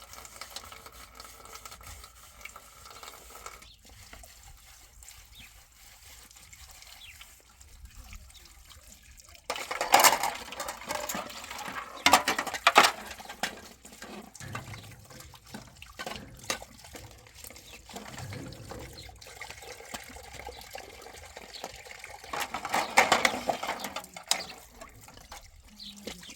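Water pouring and splashing in two spells, one about ten seconds in and a shorter one near the end, over a faint background.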